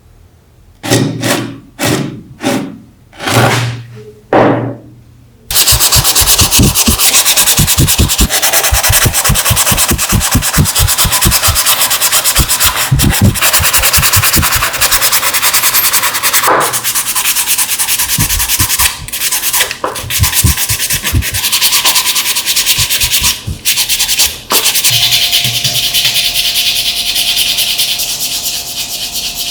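Sanding: five short separate strokes, then continuous sanding with a quick, fairly regular back-and-forth rhythm. A faint steady whine joins near the end.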